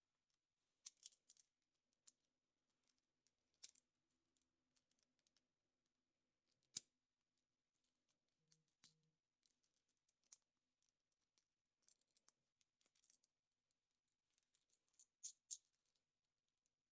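Near silence with faint scattered clicks and crinkly rustles of small plastic and foil pieces being handled, with one sharper click about seven seconds in.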